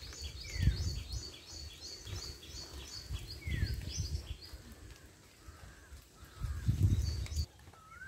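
Birds calling: a fast run of high chirps, about four a second, that stops about three seconds in, and two short falling whistles. Low rumbling noise on the microphone is loudest about half a second in and again near the end.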